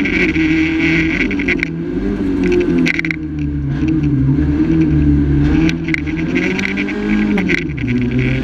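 Renault Clio rally car's engine heard from inside the cockpit, pulling hard at speed with the revs rising and falling, and a drop and pick-up in revs near the end. A few sharp knocks are scattered through it.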